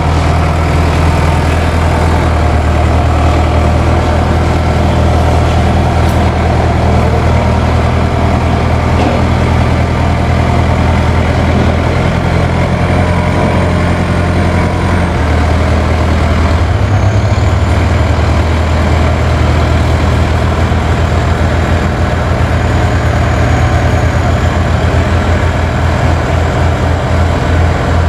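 Heavy truck's diesel engine running steadily, its low note shifting a couple of times about halfway through.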